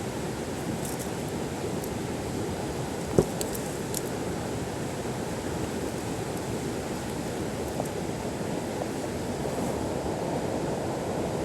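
Mountain stream water rushing steadily, with a single short knock about three seconds in.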